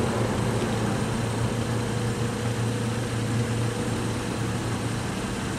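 Steady low hum of an idling motor vehicle engine under road noise, with a faint higher whine that fades out about four and a half seconds in.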